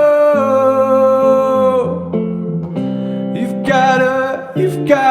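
A man singing a song with guitar accompaniment: he holds a long note for about two seconds, the guitar plays on alone, and the singing comes back near the end.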